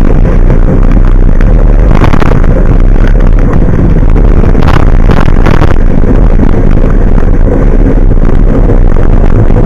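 Large truck's engine running steadily while under way, heard very loud from aboard the truck, with a few brief rushes of noise about two and five seconds in.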